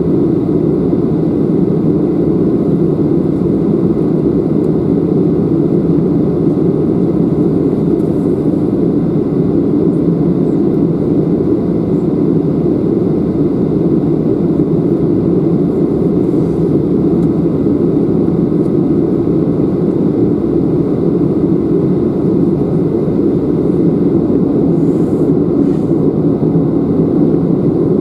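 Steady jet engine noise from a Boeing 737-800's CFM56-7B turbofans, a deep even rumble with a faint whine above it that neither builds nor fades.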